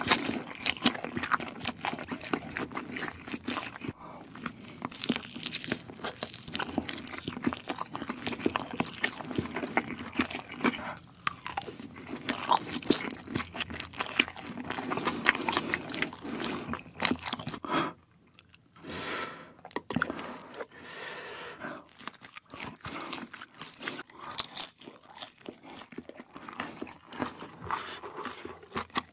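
Close-miked chewing of crisp fried Korean dumplings: crunching, biting and wet mouth sounds, with many quick clicks and a short pause about two-thirds of the way through.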